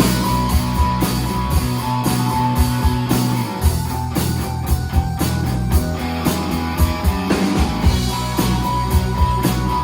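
Live synth-pop/space-rock band playing: a steady drum beat under bass, electric guitar and held synth notes.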